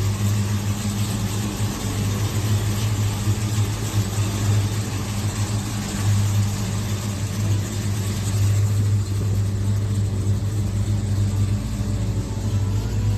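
1968 Dodge Coronet 440's rebuilt 383 V8 idling steadily.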